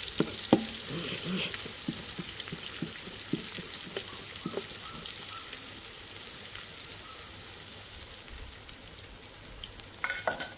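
Sliced onions, green chillies and shahi jeera frying in hot oil, with a steady sizzle. A ladle stirs and knocks against the pan in the first half, and the sizzle slowly dies down.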